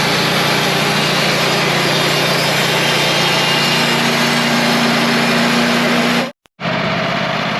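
Wood-Mizer portable band sawmill running steadily under load, its engine droning under a dense hiss as the band blade saws through a log. The sound drops out for a moment about six seconds in, then the mill runs on.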